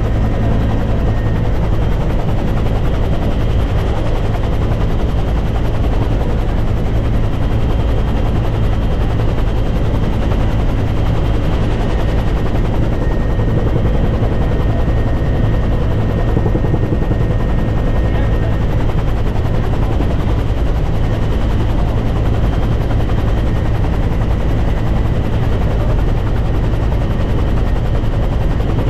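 Helicopter running steadily close by: a loud, constant, even drone of rotor and turbine with no let-up.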